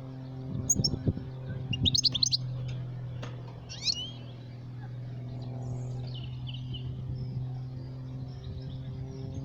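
Goldfinch giving short, sharp chirps in quick bursts about one, two and four seconds in, then quieter twittering, over a steady low electrical hum.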